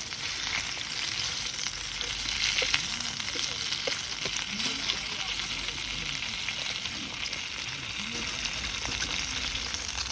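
Food frying in a pan: a steady, dense sizzle with small crackles.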